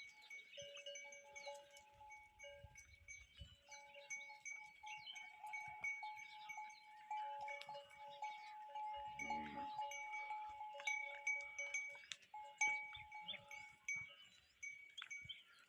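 Neck bells on cattle clinking and ringing on and off at a few fixed pitches as the animals move while drinking. About nine seconds in comes one short, low animal call.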